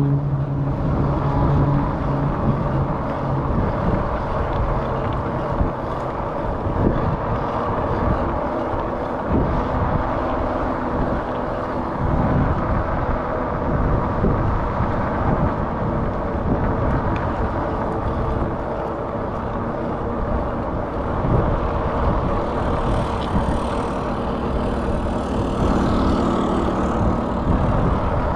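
Wind buffeting the microphone of a chest-mounted action camera, with the running noise of a Rad Rover fat-tire electric bike underneath. The rough rumble is steady and continuous.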